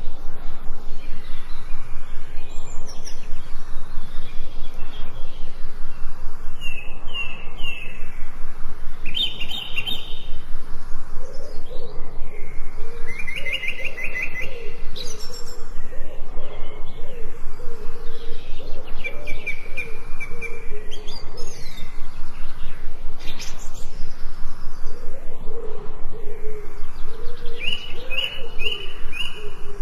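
Forest birds singing: short quick runs of high chirps and trills every few seconds, with a lower, wavering call repeating through the second half.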